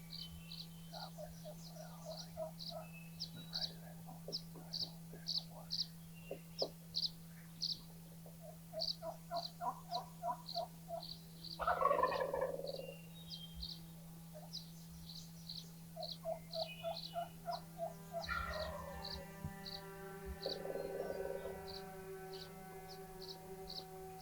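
A wild turkey gobbler gobbles loudly about halfway through, and a second gobble follows several seconds later. Underneath, short high chirps repeat steadily about twice a second over a low steady hum.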